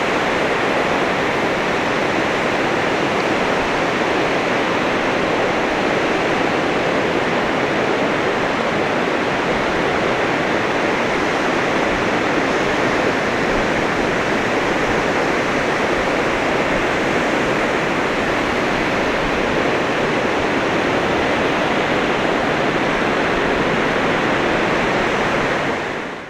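Sea surf washing onto a beach, a steady unbroken rush of waves that fades out near the end.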